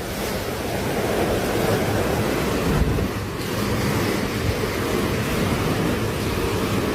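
Steady loud rush of surging water with wind buffeting the microphone.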